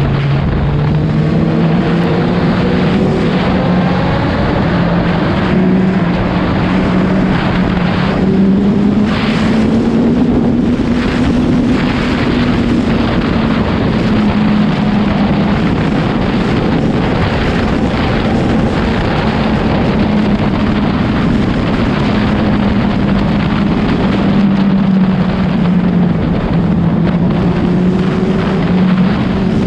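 Suzuki Hayabusa's inline-four engine running at steady cruising revs, its pitch drifting gently up and down, under a constant rush of wind on the microphone, echoing inside a road tunnel.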